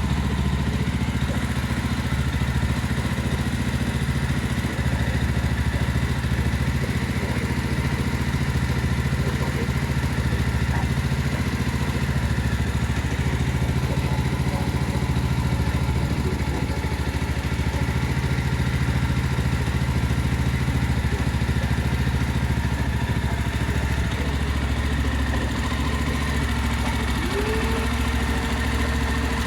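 Jawa 42 2.1 motorcycle's liquid-cooled single-cylinder engine running steadily with an even, unchanging note.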